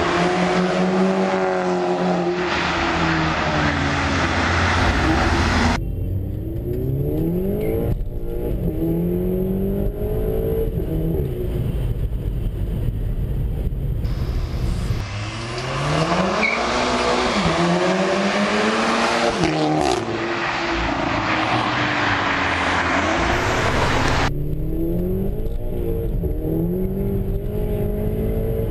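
Audi A3 TSI with an APR K04 turbo upgrade, its turbocharged four-cylinder engine revving up and down repeatedly. A loud rushing noise accompanies the engine over the first six seconds and again through the middle stretch.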